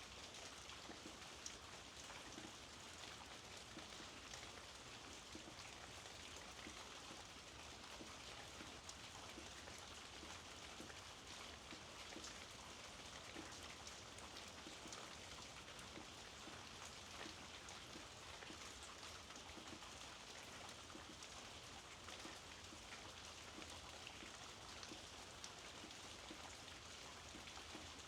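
Faint, steady rain falling, with many small individual drops ticking through it.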